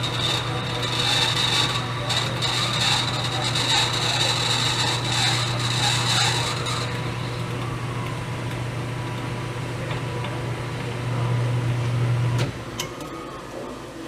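Lathe motor running with a steady hum while a tool cuts a brass bushing, the cutting noise carrying a high ringing tone for about the first half. The cutting then stops, and about three-quarters of the way through the motor shuts off abruptly.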